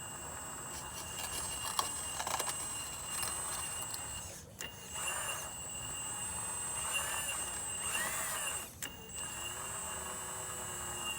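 Radio-controlled hydraulic excavator's pump and motors running with a steady high whine. Clicking and rattling between about one and three seconds in, then several swells where the pitch rises and falls as the hydraulics are worked.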